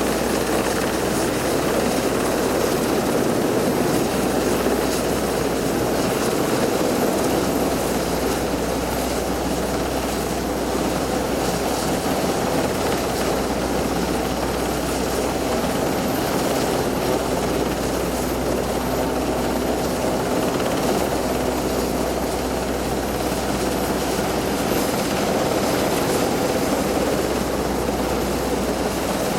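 RAF rescue helicopter's rotors and engines running, a steady loud drone with no break.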